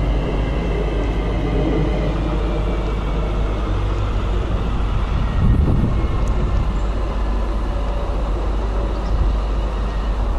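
Electric multiple unit train rolling slowly into the platform, with a faint whine from its traction motors falling in pitch as it slows, over a steady low rumble.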